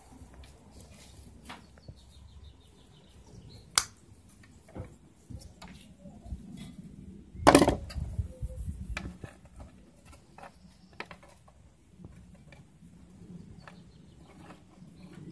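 Small clicks and knocks of hand tools and wire being handled on a workbench. There is a sharp click about four seconds in and a louder knock about seven and a half seconds in.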